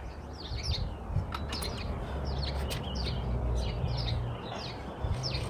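Small birds chirping: short, high chirps, two or three a second, over a low rumble of wind on the microphone.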